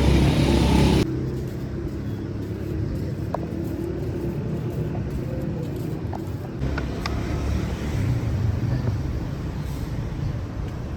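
Steady low rumble of a motor vehicle on the move, with a few faint clicks and knocks.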